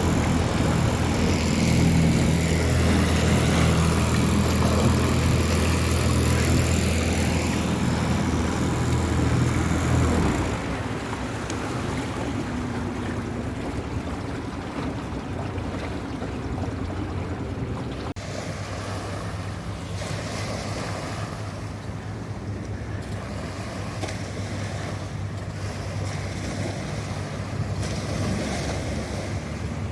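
Honda 20 hp four-stroke outboard motor running steadily under way on a small aluminum boat, with rushing water and wind. About ten seconds in the engine sound drops suddenly to a quieter, steady run.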